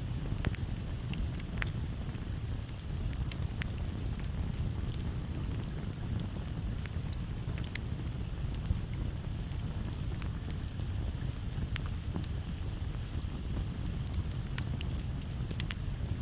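Campfire crackling: a steady low rumble of burning wood with frequent irregular snaps and pops. A steady high trill of crickets runs behind it.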